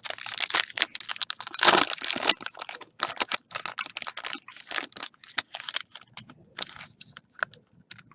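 Plastic trading-card wrapping crinkling and tearing as it is pulled open, in quick irregular crackles, thinning out over the last couple of seconds.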